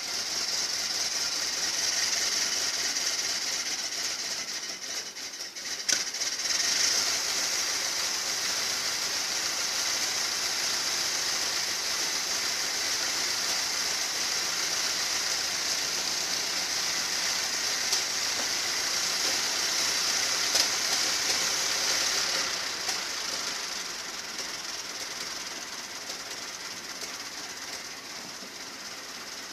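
1926 Ford Model T's four-cylinder side-valve engine running steadily after a cold start, with a strong hiss over it. It is somewhat quieter over the last several seconds.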